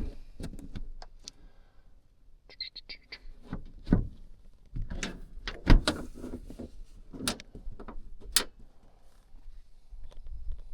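Sheet-metal furnace access door being fitted back into place: a series of knocks and metallic clanks, the loudest about four and six seconds in, with a short scrape or squeak near the start.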